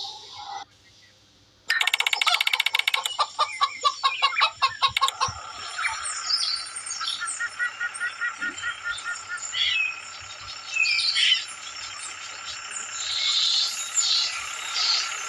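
Birds chirping and calling, with many short chirps over a steady high background. A brief near-silent gap comes about a second in, followed by a fast rattling run of clicks lasting about three seconds.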